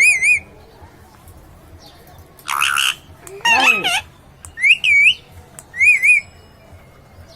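Pet parrot calling: a string of about five short calls, mostly wavering whistle-like notes, with a harsh screech about two and a half seconds in and a falling squawk just after.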